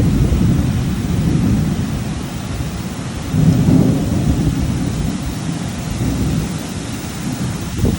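Thunder rumbling over steady rain, the rumble swelling again about three seconds in.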